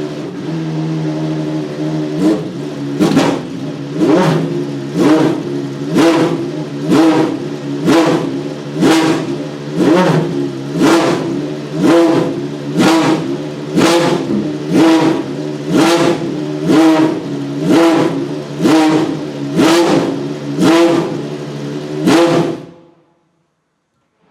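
Maserati MC12 GT1's naturally aspirated V12 race engine idling, then blipped over and over, about once a second, each rev rising sharply and dropping back to idle. The engine sound cuts off suddenly near the end.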